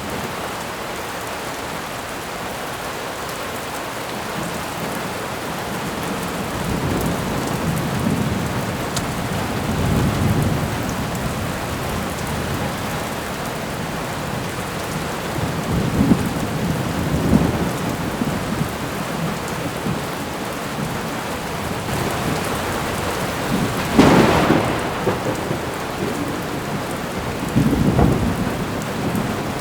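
Thunderstorm: steady heavy rain falling, with rolling rumbles of thunder that swell and fade several times. A sharper, louder thunderclap comes about three-quarters of the way through, and another near the end.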